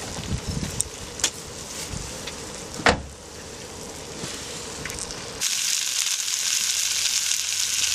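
Food sizzling in a frying pan over a campfire, with a few utensil clicks and one sharp knock about three seconds in. About five and a half seconds in, a louder, brighter sizzle starts abruptly.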